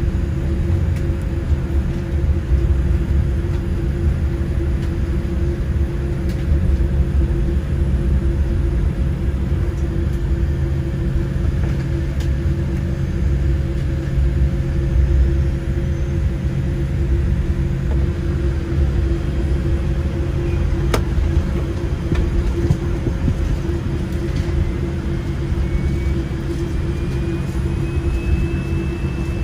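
Airliner cabin noise on board a Boeing 787-8 on the ground: a steady low rumble with a constant hum, and a high whine that rises over a few seconds near the end, then holds.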